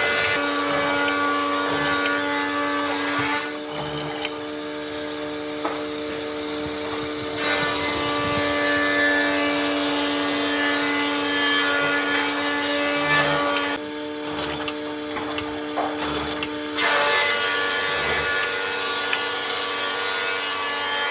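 A power tool running on wood, with a steady motor whine under a grinding noise. The grinding eases off twice for a few seconds and then comes back.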